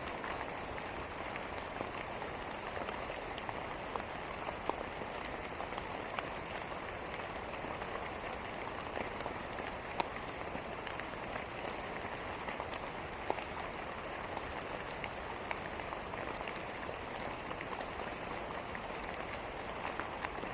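Steady rain falling, with scattered sharper drop hits standing out now and then.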